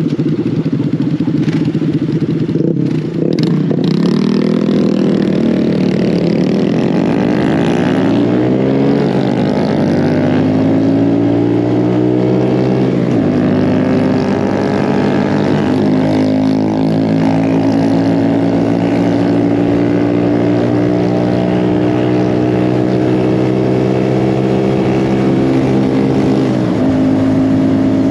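Mini bike engine running under way, its pitch climbing for several seconds as it revs up, dropping sharply about thirteen seconds in, then holding steady at speed.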